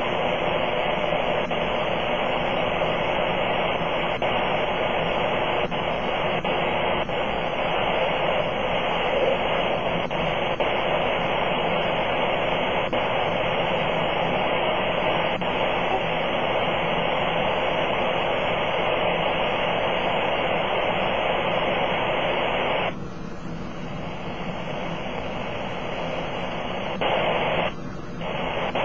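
Apparent powerline noise (RFI) heard through an HF transceiver on the 80 m amateur band: a steady, dense static hiss that drowns out weaker stations, the sign of arcing or broken hardware on nearby power poles. About 23 s in, the upper part of the noise thins out for a few seconds, then drops again briefly near the end.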